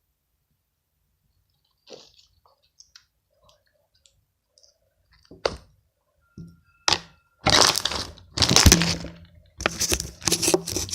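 Crunchy slime made with clear glue crackling and popping as it is worked by hand: a few faint clicks at first, then loud, crackly bursts from about five seconds in.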